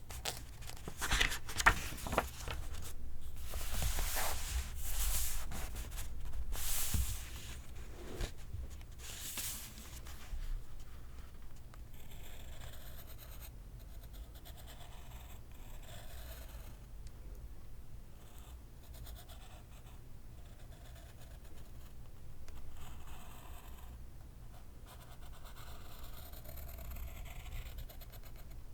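Pencil scratching on paper in writing strokes: louder, choppier scrapes in the first ten seconds, then softer, steady fine scratching.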